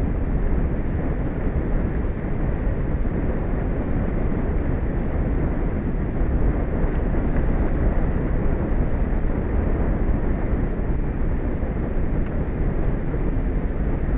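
Steady low rumbling noise with no separate events, heaviest in the deep bass.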